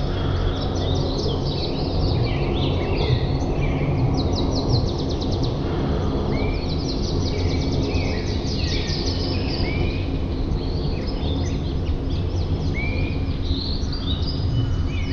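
Several birds chirping and singing together, with overlapping short chirps and rapid trills, over a steady low background rush.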